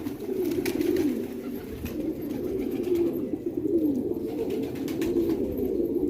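Several domestic pigeons cooing, their low coos overlapping without a break.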